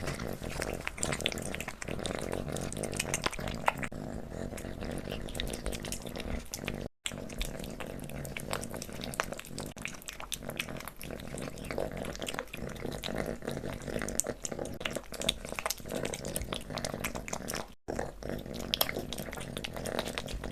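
A kitten eating soft wet cat food close to the microphone: rapid wet licking and smacking clicks. The sound cuts out briefly twice, about seven and eighteen seconds in.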